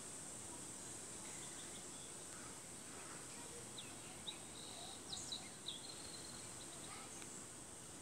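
Faint steady outdoor hiss with a few short, high bird chirps about halfway through.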